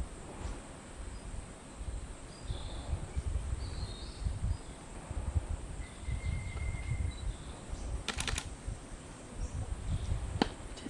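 Faint short calls of forest birds over a low rumbling background, with a quick run of clicks about eight seconds in and a single sharp click near the end.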